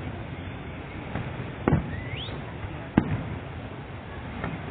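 Fireworks display: aerial shells bursting with sharp bangs, the two loudest about a second and a half apart, with fainter pops around them and a short rising whistle between the bangs.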